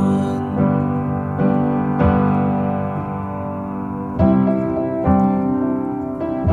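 Background music: a piano playing slow chords with no singing.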